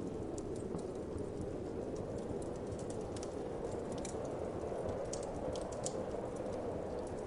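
Wood fire crackling, with many small sharp pops at irregular intervals, over a steady low whoosh of wind.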